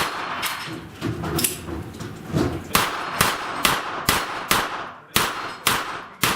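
A string of about a dozen gunshots fired at steel plates, a few spaced out at first and then about two a second.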